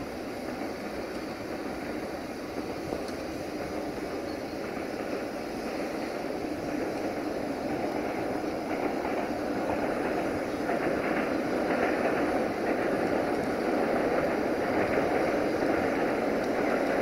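An approaching freight train hauled by a 060-DA (LDE 2100) diesel-electric locomotive: a steady rumbling rush that grows gradually louder as it draws near.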